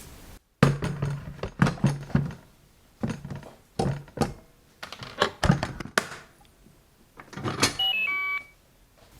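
A run of knocks and thuds from the metal inner pot of an electric rice cooker being handled, then near the end a short melody of electronic beeps from the rice cooker.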